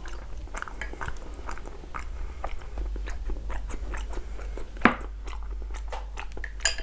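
Close-miked chewing and wet mouth sounds of someone eating chicken curry with rice, a string of small clicks, with one sharper knock about five seconds in.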